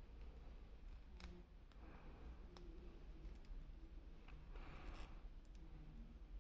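Faint handling of a boxed action figure: a few scattered sharp plastic clicks and a short rustle about five seconds in.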